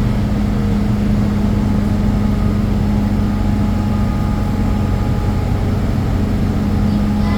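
MTR M-train electric multiple unit running along the line, heard from inside the carriage: a steady loud rumble with a strong low hum. Faint higher steady whine tones come in about three seconds in and again near the end.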